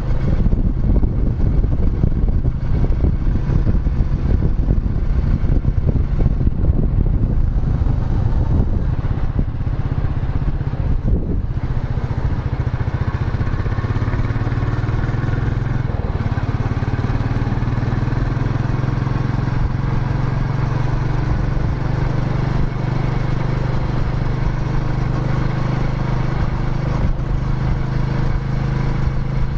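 Royal Enfield Meteor 350's single-cylinder engine running on the road, rough and uneven at first; after a brief dip about a third of the way in it settles into a steady, even thump.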